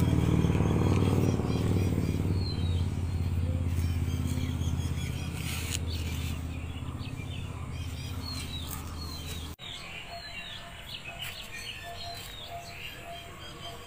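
Small birds chirping again and again over a low, steady hum of background music that gradually fades. The hum cuts off abruptly about ten seconds in, leaving the chirps and faint background noise.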